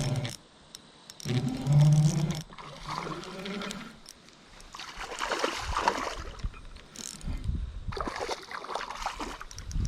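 Water splashing and dribbling, with short stretches of unclear voice in between.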